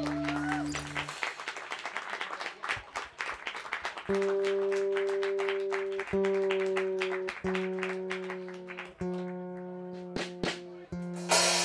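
Audience clapping after a song ends, fading out over the first few seconds as a held electronic drone stops. Then a guitar note is plucked again and again, about every second and a half, each left to ring, with one short loud noise near the end.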